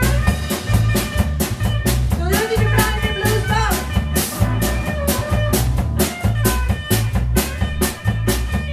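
Blues band playing live: drum kit and bass keep a steady beat, with a bending, wavering lead line for about a second partway through.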